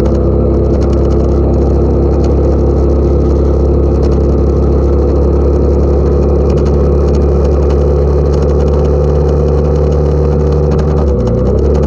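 Motorcycle engine running steadily while riding, with a brief dip and change in the engine note near the end.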